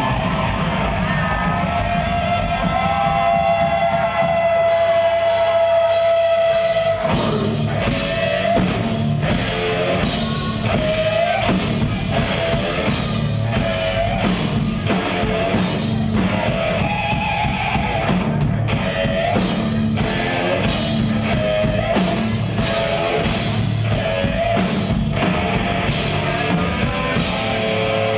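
Progressive death metal band playing live, with distorted electric guitars and a drum kit. A held note rings over a thinned-out low end until about seven seconds in, when the full band with dense, driving drums comes back in.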